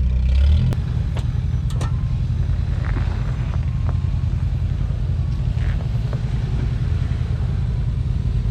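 Off-road vehicle engine running at low speed with a steady, pulsing low rumble, as in slow trail crawling. A few sharp clicks or knocks come in the first two seconds.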